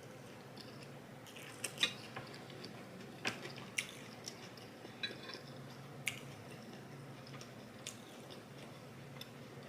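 A person eating fried rice: soft chewing and mouth sounds, with a few short, sharp clicks scattered through.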